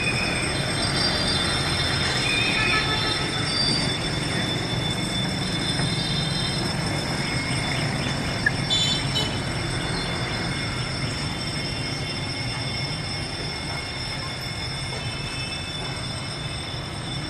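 Train rolling past: a steady rumble with thin, high-pitched wheel squeal, growing slightly fainter toward the end.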